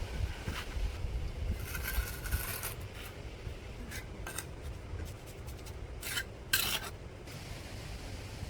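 A few irregular rasping, scraping strokes, the longest about two seconds in, over a low steady rumble.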